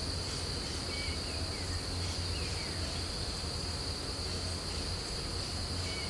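Steady, unbroken high-pitched insect drone with a low steady hum underneath and a few faint, short bird chirps.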